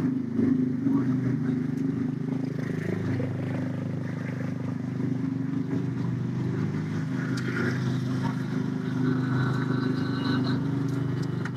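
An engine running steadily at an even low hum.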